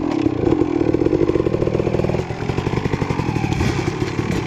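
Dirt bike engine running steadily, the pitch and level dropping a little about two seconds in as it settles lower.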